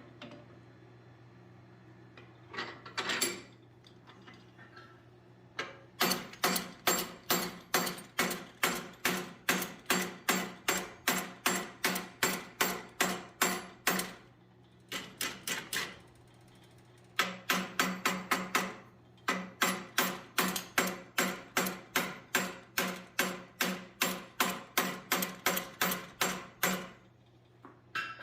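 Hammer blows on hot steel at the anvil, flattening a fullered bar: two long runs of steady, evenly spaced strikes, about two to three a second, split by a short pause with a few lighter blows, over a steady low hum.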